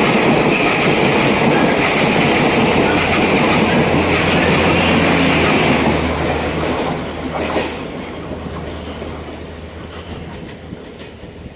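Passenger train's coaches passing at speed, wheels clattering over the rail joints. About seven seconds in the train draws away and the sound fades steadily.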